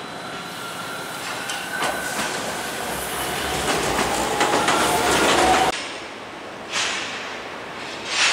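An electric commuter train passes close by, with a faint whine and wheels clattering over the rail joints, growing louder until it cuts off abruptly. After the cut come two short whooshes, like video-edit sound effects.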